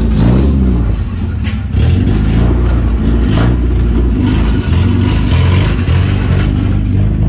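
Car engine running loudly, revved briefly near the start with its pitch rising and falling, then running on at a steady note.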